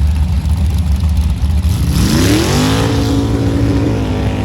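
Truck engine rumbling low, then revving up about two seconds in and holding at high revs, with a rushing hiss as it climbs.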